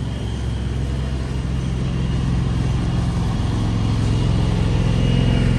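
Street traffic with a motor vehicle's engine running steadily, a low hum that grows slightly louder.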